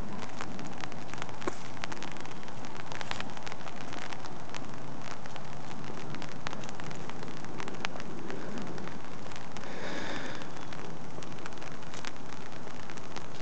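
Light rain falling: a steady even hiss with scattered drops ticking close by.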